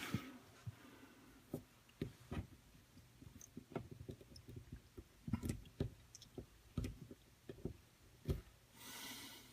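Irregular light knocks and clicks, more than a dozen spread unevenly, with a short hiss near the end.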